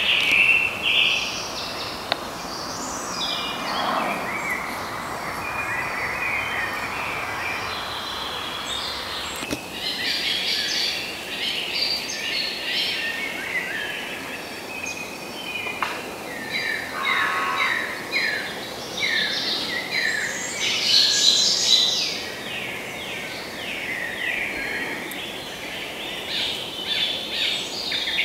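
Several songbirds chirping and singing, many short calls and quick trills overlapping, over a steady background hiss that lessens about ten seconds in.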